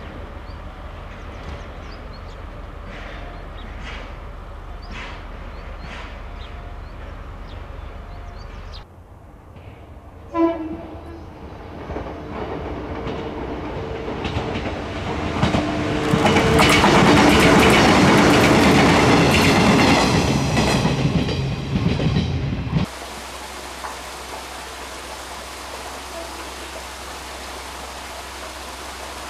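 Shinano Railway 115-series electric train sounding a short horn blast, then going by, its rumble and wheel clatter building to the loudest point before cutting off suddenly.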